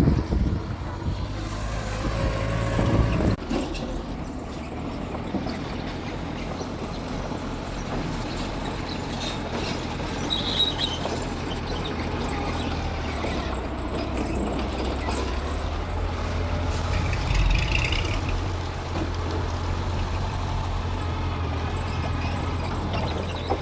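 Mitsubishi bulldozer's diesel engine running steadily, with louder surges in the first few seconds and again a little past the middle.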